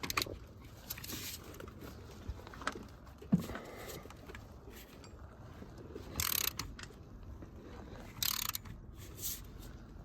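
Socket wrench working the coolant outlet fitting on an engine's intake manifold: several short rasping bursts and a few sharp metal clicks.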